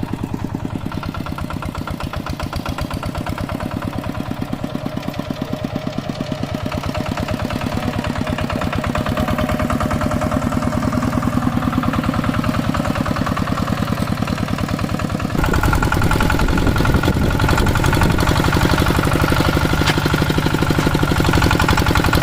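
Hand tractor's single-cylinder diesel engine running with a rapid, even chugging beat. It grows slowly louder, then jumps abruptly louder about fifteen seconds in, as under more throttle or load.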